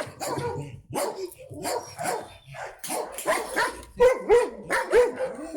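Shelter dogs barking again and again, several barks a second, louder and sharper near the end.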